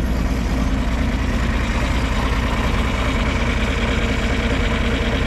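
A motor running steadily with a constant low drone, like an engine at idle.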